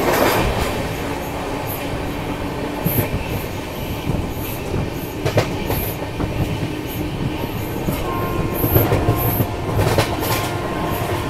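Passenger train running at speed, heard from beside the coach: a steady rumble of wheels on the rails with a few sharp clacks. A faint steady whine joins about eight seconds in.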